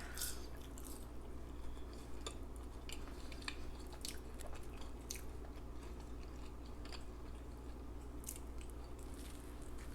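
A person chewing fast food close to the microphone, with irregular small wet clicks and smacks of the mouth and a steady low hum underneath.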